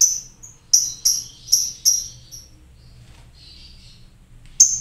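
Lovebird calling: a quick run of sharp, high-pitched chirps, about six in the first two and a half seconds, then one more near the end.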